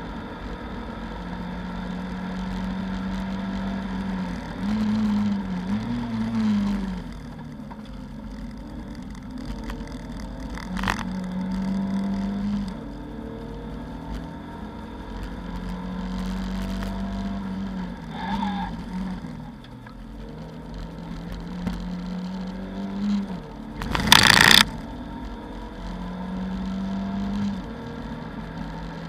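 In-cabin sound of a Lada 2109 race car's four-cylinder engine at high revs, rising in pitch as it pulls through each gear and dropping at each lift or shift, over steady road noise. About 24 seconds in, a short, very loud burst of noise stands out above the engine.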